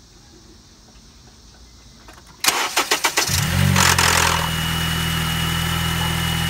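A Honda Accord four-cylinder engine is cold-started. About two and a half seconds in, the starter cranks for under a second. The engine catches with a brief rattle from a failed VTC actuator, then settles into a steady idle with a thin high whine.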